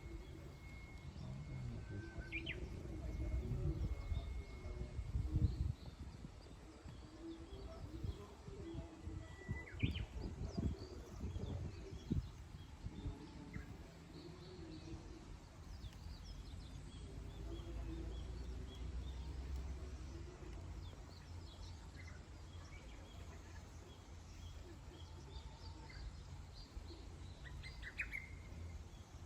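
Wild birds calling now and then with short chirps and whistled notes, over a steady low rumble of outdoor background noise that swells twice in the first half.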